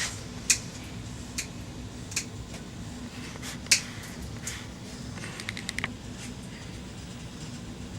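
Dog nail clippers snipping through a dog's nails: single sharp clicks every second or so, the loudest about three and a half seconds in, then a quick run of small clicks a little later.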